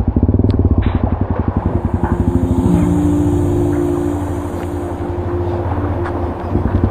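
Motorbike engine running under way, with a fast even throbbing for about the first two and a half seconds, then settling into a steadier hum at a higher pitch.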